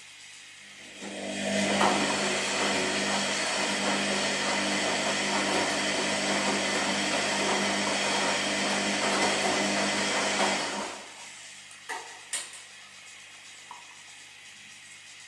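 Washing machine running: a loud whirring of motor and drum starts about a second in, holds steady for about nine seconds, then dies away to a faint hum. Two sharp clicks follow shortly after.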